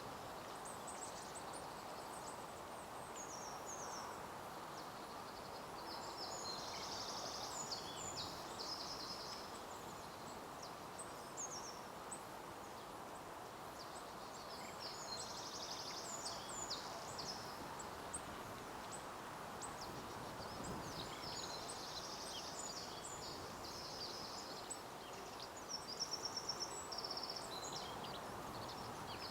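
Birds singing and calling in short high trills and chirps that come and go over a steady faint outdoor background hiss, with a quick run of short notes near the end.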